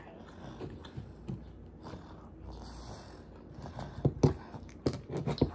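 Quiet chewing and breathing at the table, then a few short sharp clicks and taps near the end as a clear plastic dipping cup and its lid are handled.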